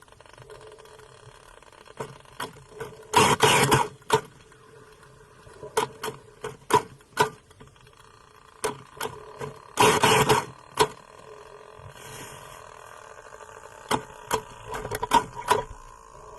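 Sperm whale clicks, as heard underwater: single sharp clicks at uneven spacing, with two longer dense runs of rapid clicks, one a few seconds in and one about ten seconds in, over a faint steady hum.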